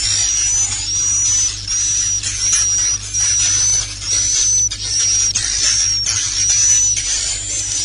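Swiftlet roosting lure call ('suara inap'), the call played to draw swiftlets into a bird house: dense, high-pitched buzzy twittering with a short whistled tone repeating about every half second to second. A faint steady hum runs underneath.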